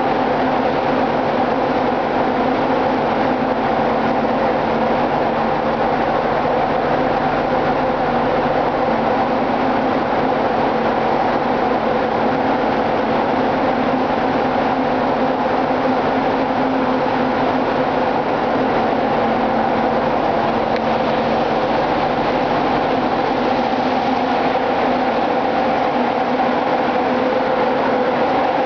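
Running machinery in a ship's engine room: a steady, loud din with several constant hums, unchanging throughout.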